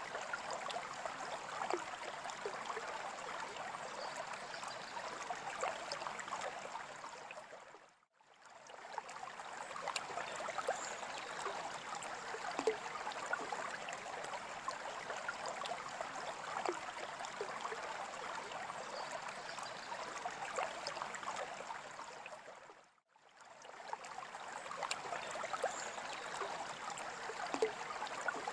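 Steady running, trickling water with small splashes, like a small stream. It fades out to nothing and back in twice, about eight seconds in and again around twenty-three seconds.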